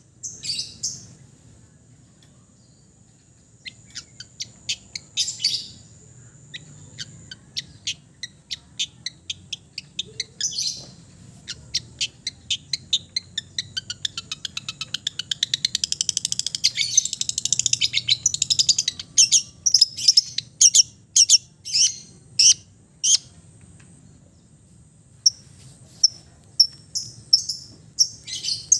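Long-tailed shrike (cendet) singing a fast, varied run of sharp high chips and trills, rich in mimicked notes of other birds. It builds to dense chattering in the middle, pauses briefly near the end, then starts again with rapid repeated notes.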